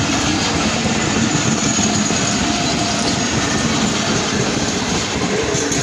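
Passenger coaches of an express train running past at speed close by: a steady, loud rush of wheels on the rails.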